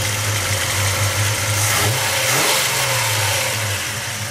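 1971 Chevy pickup's big-block V8 idling, blipped once about two seconds in, its note rising briefly and settling back to idle.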